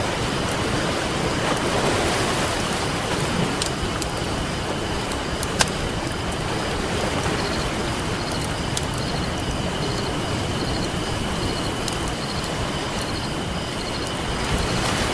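Ocean waves washing steadily on a beach, with a wood campfire crackling over them and a few sharp pops, the loudest about five and a half seconds in. A faint steady high-pitched tone runs underneath.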